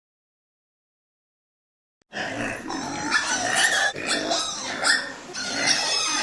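A dog vocalizing loudly and continuously, starting about two seconds in after a silent gap.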